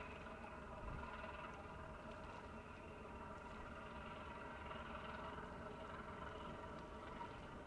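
Steady drone of distant ship engines: a low rumble under a faint, even hum of several tones.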